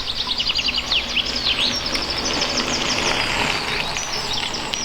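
A small songbird singing in fast runs of high chirps and trills, over a steady outdoor hiss.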